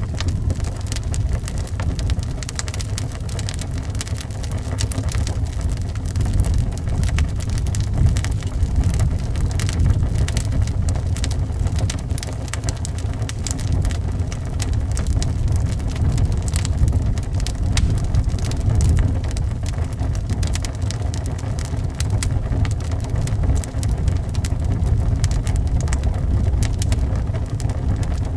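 Wood fire crackling with frequent small snaps and pops over a steady low rumble of wind.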